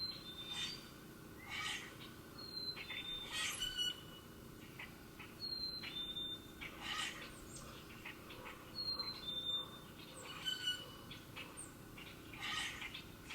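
Wild songbirds calling: a clear two-note whistle, the second note slightly lower, repeated every couple of seconds, with short sharp chips in between.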